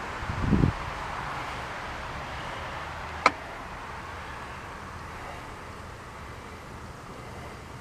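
John Deere riding lawn tractor running steadily while mowing, with a low thump about half a second in and a single sharp click a little past three seconds.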